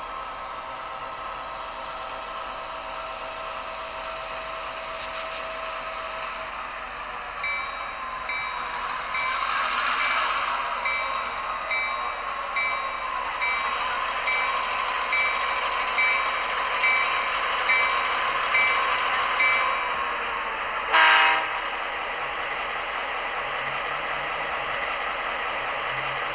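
Sound decoder of a Union Pacific GP38-2 model diesel locomotive running: a steady diesel engine sound plays throughout, the bell rings at a steady beat from about a quarter of the way in until about 20 seconds, and one short horn blast sounds near the end.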